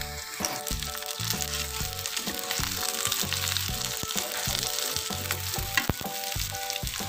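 Sliced onions, garlic, whole spices, lemongrass and green chilies sizzling steadily as they fry in oil in a wok. A metal spatula scrapes and taps against the pan now and then as they are stirred.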